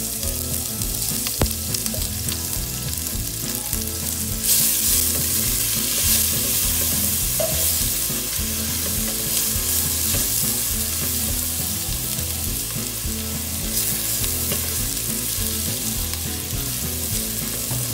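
Minced garlic and ginger sizzling in hot butter in an enamelled cast-iron Dutch oven while being stirred with a silicone spatula; the sizzle swells about four and a half seconds in and stays steady. The pot is running very hot.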